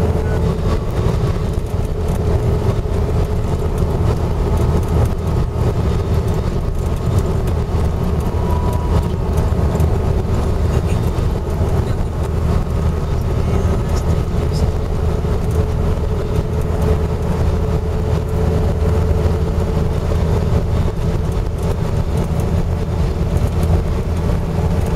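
Steady road noise inside a car driving on an expressway: a low, even rumble of tyres and wind with a faint steady hum.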